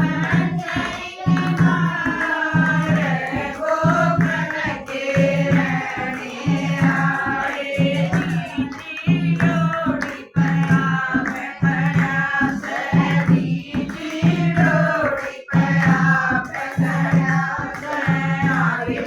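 Devotional Haryanvi bhajan to Krishna: voices singing a melody over a low beat that repeats about once a second.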